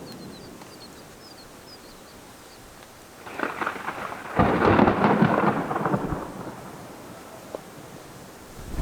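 A rumble of thunder from the tornado-producing supercell, building about three seconds in, cracking loudest around the middle and fading away over the next couple of seconds.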